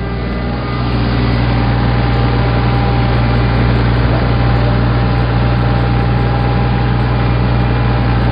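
Tractor engine running steadily, a deep, even drone.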